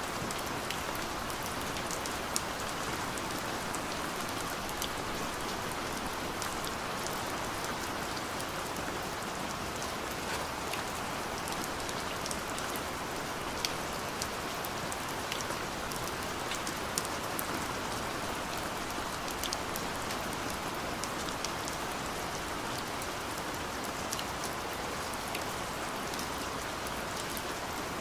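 Steady rain falling on a surface, an even hiss with many individual drop ticks scattered through it.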